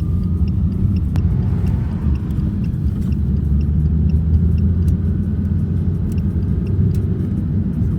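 Steady low rumble of a car heard from inside the cabin, the engine and road noise of a car being driven, with a few faint ticks and a faint rising tone over it.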